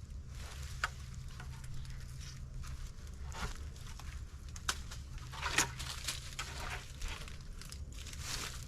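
Irregular rustling and short crackling clicks, over a steady low rumble.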